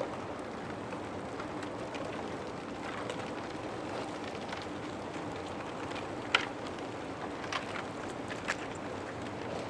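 Broken harbor ice grinding and shifting as a ship passes through it, a steady churning noise with a few sharp clinks and knocks of ice pieces striking each other, the loudest about six seconds in.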